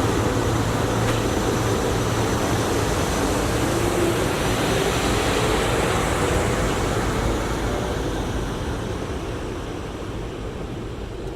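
SEPTA Regional Rail electric train passing, a steady rushing rumble with a thin high whine that fades away over the last few seconds as the train moves off.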